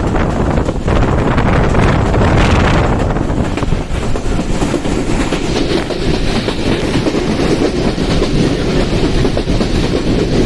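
Passenger train running past at speed close by, with a steady, loud rumble of coaches and clatter of wheels on the rails.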